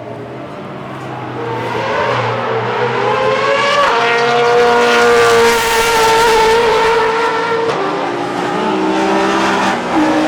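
Classic DTM touring race cars passing at speed, engines rising in pitch as they accelerate toward the listener, loudest about halfway through, then dropping in pitch as they go by, with more than one engine heard near the end.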